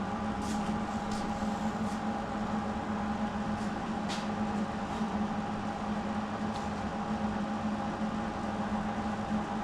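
A steady mechanical hum, like a machine or motor running, with a few faint ticks.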